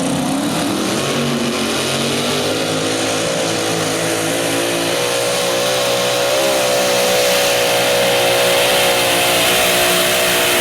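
Modified mini pulling tractor engine running at full revs on a pull. It revs up in the first second, then holds a high, steady pitch with a slight waver, getting a little louder in the second half.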